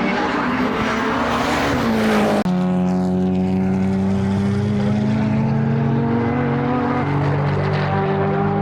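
Time-attack race car engines running: one rises in pitch for the first couple of seconds, then after an abrupt change about two and a half seconds in, a steady engine drone holds with only slight shifts in pitch.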